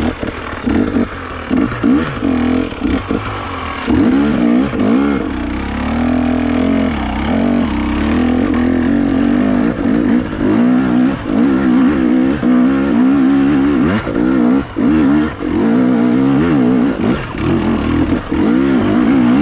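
KTM two-stroke enduro motorcycle engine being ridden hard off-road, revving up and dropping off again and again, its pitch rising and falling with the throttle.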